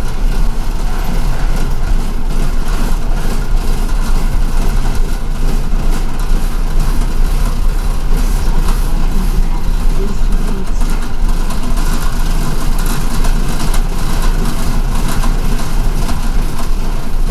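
Cabin noise of an MTA city bus: a steady engine-and-road rumble with a heavy low drone, and light rattles over it.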